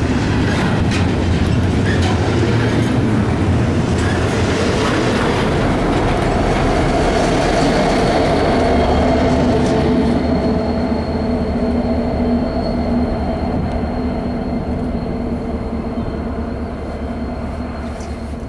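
Double-stack container well cars of a freight train rolling past on steel wheels, a loud, dense rumble of wheels on rail. After about ten seconds it slowly fades as the train moves away, with a steady whine from the wheels and rails hanging on.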